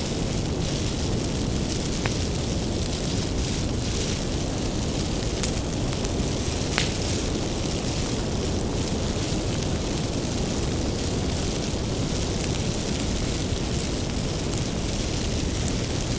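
Wood fire burning: a steady low rush with a few sharp crackles and pops scattered through it.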